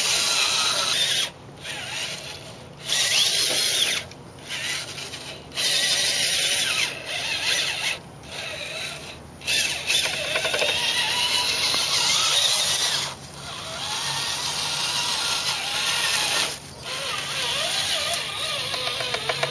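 Traxxas Titan 550 12-turn brushed electric motor and geared drivetrain of an RC crawler running with a mechanical whine, cutting out briefly several times and starting again.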